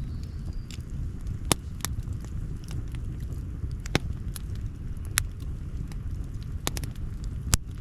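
Wood campfire crackling, with five or so sharp pops spread through, over a low steady rumble.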